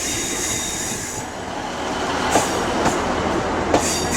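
Class 158 diesel multiple unit arriving at a station platform. A thin high wheel squeal runs over the rolling noise, and three short sharp clicks come in the second half.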